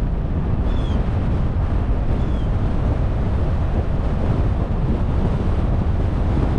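Steady wind and road noise of a car being driven, deep and even, with two short high chirps about one and two seconds in.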